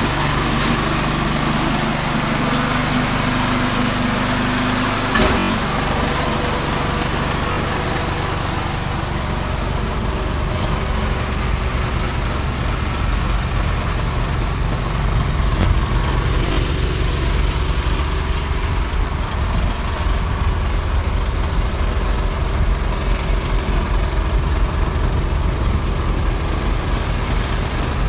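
Craftsman 208cc two-stage snowblower's single-cylinder four-stroke engine running steadily. About five seconds in there is a brief knock, and the running turns rougher and heavier for the rest of the time.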